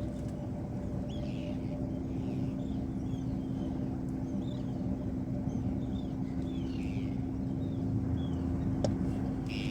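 An engine running steadily, a constant droning hum, while a bird gives short, quick chirps over and over, about one or two a second.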